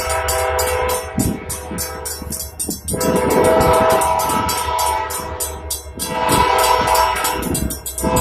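Train horn sounding a steady multi-note chord in long blasts, swelling again about three seconds in and about six seconds in, over a rapid, regular clatter from the passing train.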